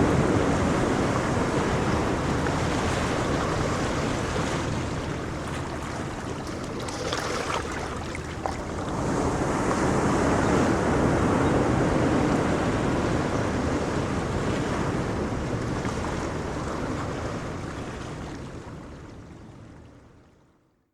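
Ocean waves breaking and washing on a shore, swelling and receding in a steady noise, with some wind on the microphone. The sound fades out to silence near the end.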